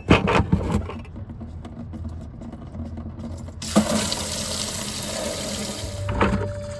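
A few clicks of metal handling, then engine coolant suddenly starts pouring from the opened drain of a Cummins ISX 15's coolant pipe and splashes into a bucket a little past halfway through.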